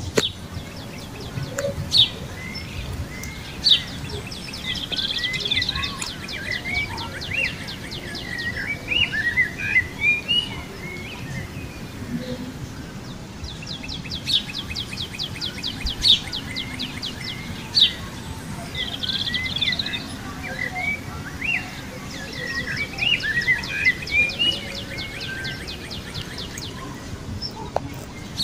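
Small birds chirping and twittering, with fast rattling trills breaking in now and then; the same run of calls comes round a second time about halfway through.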